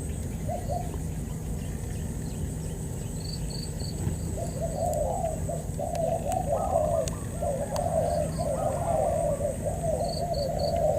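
Spotted doves cooing, one brief call early and then an almost unbroken run of low, wavering coos from about four seconds in. Small high chirps of another bird come twice, over a steady high insect whine.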